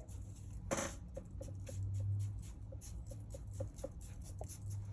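Soldering iron tip being wiped clean on a wet sponge: a short scrape about a second in, then a run of light, scratchy ticks over a low steady hum.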